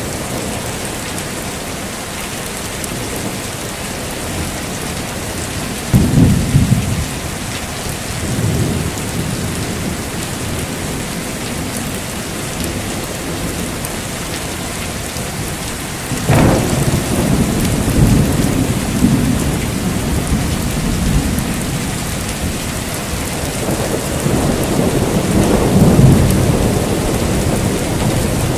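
Heavy, steady rain with thunder. A thunderclap about six seconds in and a sharper crack followed by long rolling rumbles about sixteen seconds in, then another rumble building near the end.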